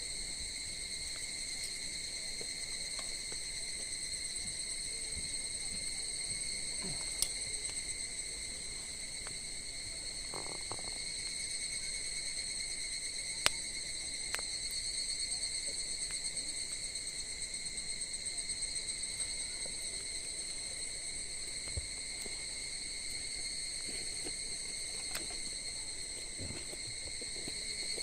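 An insect, cricket-like, trilling steadily on one high pitch throughout, with a few sharp pops from a wood campfire, the loudest about seven and thirteen seconds in.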